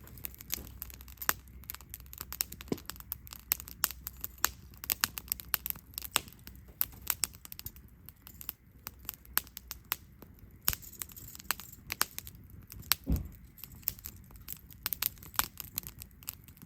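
Wood campfire crackling, with many irregular sharp snaps and pops, and a single low thump about 13 seconds in.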